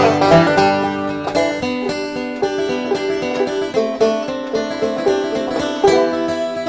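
Banjo and acoustic guitar picking an instrumental tune together, with quick plucked notes.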